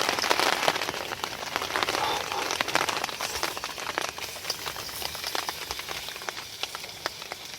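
Onion and wieners sizzling and crackling in a frying pan, a dense hiss of small pops that slowly dies down.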